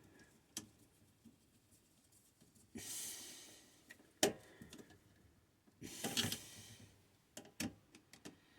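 Two close breaths about three seconds apart, with scattered light clicks and taps of hand work on small parts, the sharpest about midway.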